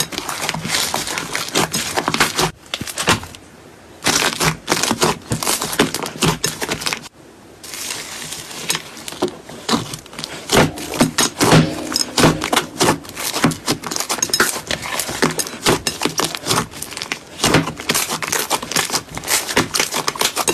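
Slime being squeezed and poked by hand: dense, rapid crackling and popping, dropping away briefly twice.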